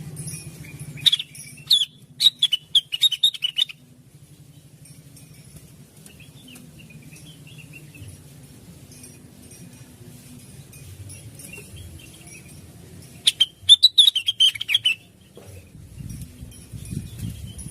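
Greater green leafbird (cucak wilis) singing in two bursts of rapid, sharp, high chirps, one about a second in and another about two-thirds through, with softer chirping between. A low hum runs underneath, and a low rumble comes in near the end.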